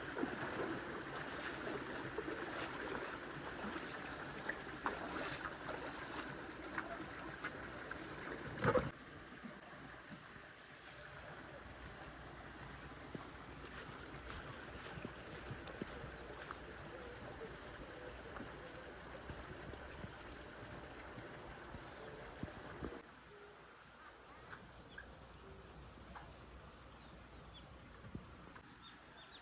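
Insects trilling steadily at a high pitch over quiet outdoor ambience. For the first nine seconds a denser rushing noise covers it, which ends abruptly with a sharp knock.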